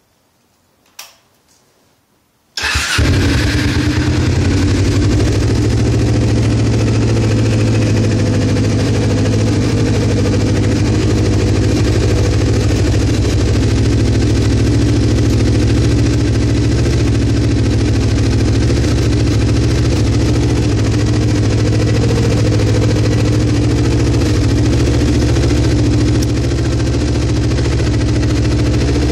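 Kawasaki ZZR250's parallel-twin engine, fitted with an aftermarket Muzzy exhaust, starting up after a faint click about two and a half seconds in, then running loudly and steadily at idle.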